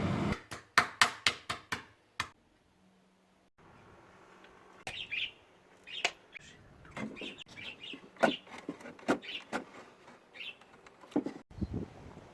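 A quick run of about seven sharp clicks, then budgerigars chirping in short, scattered calls mixed with a few light knocks.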